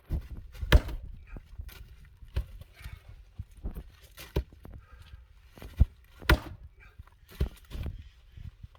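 Axe splitting oak firewood: sharp knocks of the axe striking the wood, the loudest a little under a second in and another about two-thirds of the way through, with lighter knocks between.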